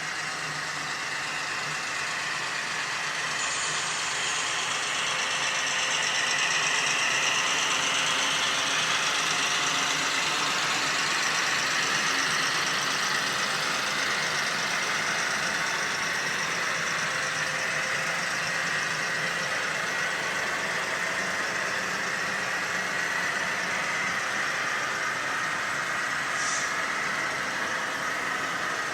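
Model train running on a layout, with a steady electric-motor whine and wheels rolling on the rails. It swells about a quarter of the way through, then slowly eases.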